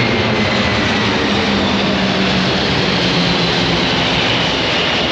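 Military jet aircraft making a low pass: a loud, steady engine roar with a high whine that slowly drops in pitch as it goes by.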